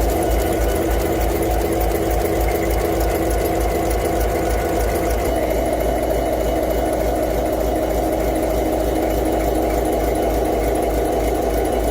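A large engine running steadily with an even, rapid beat and a mechanical clatter; a steady hum in the sound stops about five seconds in.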